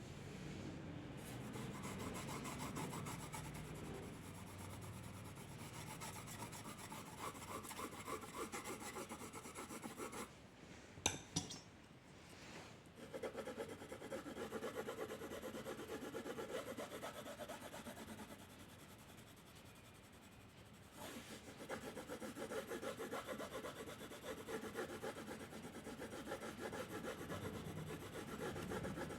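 Quick back-and-forth strokes of a drawing or colouring tool rubbing on paper. A pause about ten seconds in holds a sharp click, and the strokes ease off again for a few seconds later on.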